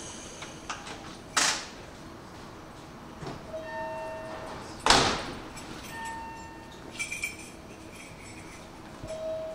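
Sounds around a stopped Hanshin Railway train: two short, sharp bursts of hissing air about three and a half seconds apart, the second the loudest, with a few short steady tones between them.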